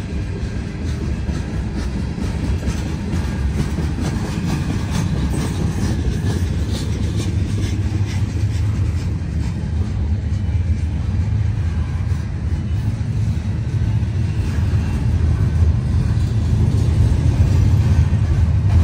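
Cars of a CN manifest freight train rolling past: a steady low rumble of steel wheels on rail, with faint clicks in the middle, growing slightly louder toward the end.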